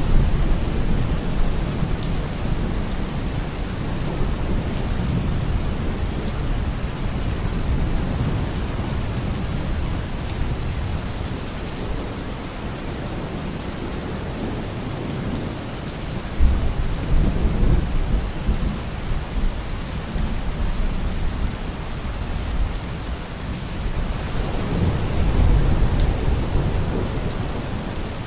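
Steady rain falling, an even hiss, with deep rumbles swelling about two-thirds of the way in and again near the end.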